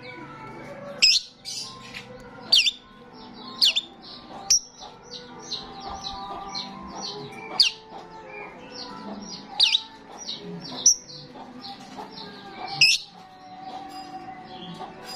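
Starling singing: loud, sharp whistled calls every second or two, with fast runs of short chirps in between.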